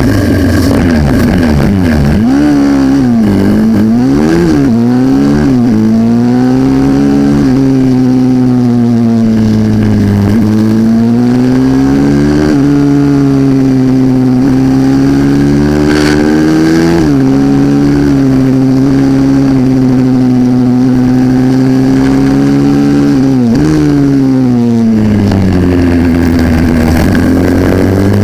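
Racing minibike engine at full race pace, its pitch climbing and falling again and again, with several sudden drops in pitch.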